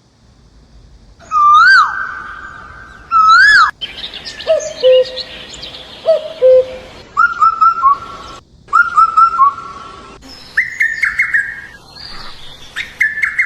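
Birds calling: a run of loud, clear whistled calls and chirps, some notes sliding up and down, others short and repeated, starting about a second in. The calls change in pitch and pattern with abrupt breaks between stretches.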